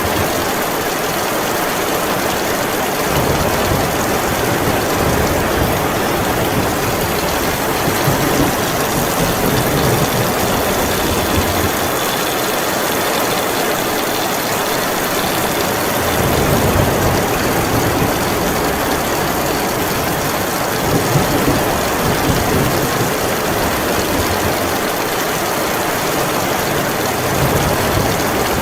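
Heavy rain falling steadily. A low rumble, from wind or distant thunder, swells and fades a few times underneath.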